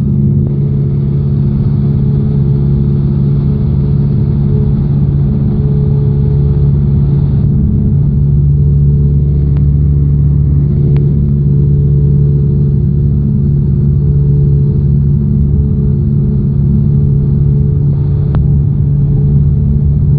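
Cessna 172's piston engine and propeller droning steadily at cruise, heard from inside the cockpit. There are a few faint clicks.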